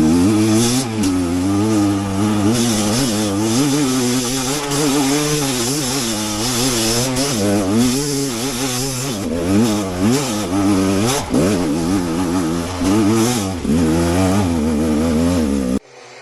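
Rieju enduro motorcycle engine being ridden, revving up and down constantly, its pitch rising and falling every second or so. The sound drops away abruptly near the end.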